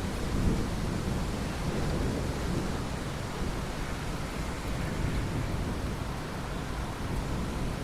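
Steady rain with thunder rumbling low in the first couple of seconds, then settling into the even hiss of the rain.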